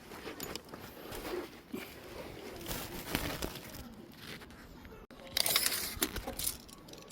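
Rustling, scraping and light knocks from handling an insect-screen frame and its mesh, with a louder rustling scrape about five and a half seconds in and a sharp knock at the end.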